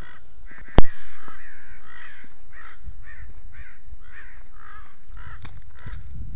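Birds calling over and over, short calls coming about two or three a second. A sharp knock about a second in stands out above them.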